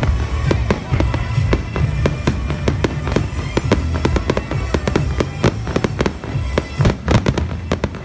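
Aerial fireworks shells bursting in rapid succession, several sharp reports a second over a continuous low rumble.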